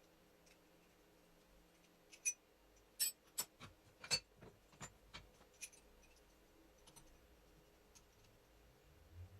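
A quick run of sharp metallic clicks and taps, about a dozen over three or four seconds, from hand tools and small metal parts being handled while an alternator is taken apart.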